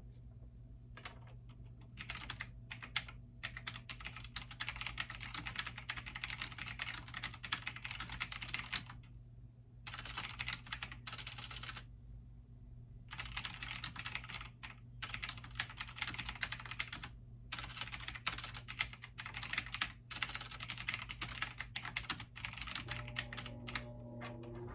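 Computer keyboard typing in fast, continuous runs, with two short pauses, over a steady low hum.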